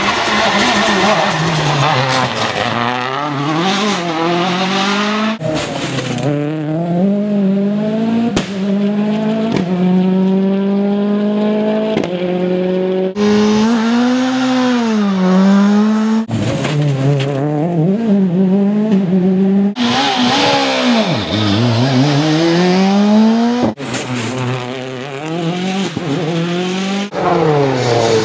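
World Rally Cars' turbocharged 1.6-litre four-cylinder engines revving hard, several cars one after another. The pitch climbs and drops sharply through gear changes, and falls and blips back up under braking.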